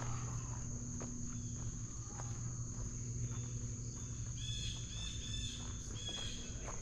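Steady high-pitched insect chorus over irregular footsteps on an unpaved dirt trail, with a short pitched call about two-thirds of the way through.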